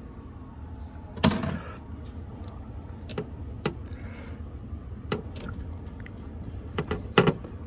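A steady low motor hum, with a string of sharp knocks and clunks from handling drain-line pipe and tools; the loudest come about a second in and near the end.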